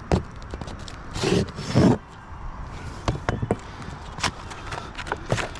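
Scattered knocks, clicks and scrapes of hand tools and roofing material during shingle roof repair work. There are a few heavier thuds in the first two seconds and lighter sharp clicks after that.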